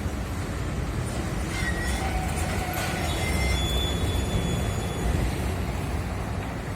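Steady low rumble of heavy street traffic and road machinery, with a few faint, brief high squeals over it.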